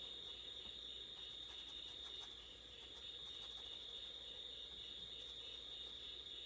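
Insects chirping: a steady high trill with a pulsing chirp about three times a second, over a faint steady hum.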